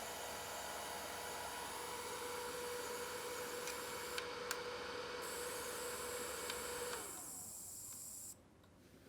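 Small rechargeable mini fan running with a steady whirring hiss and a faint hum, with two light clicks in the middle; about seven seconds in it winds down, and a second later it cuts off abruptly.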